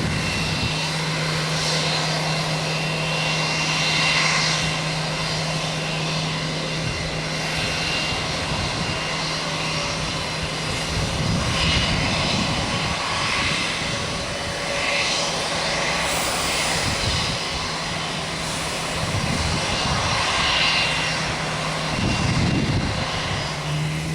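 Jet airliner's engines running steadily as it comes in to land: a steady low hum under a broad rushing noise, swelling and easing slightly.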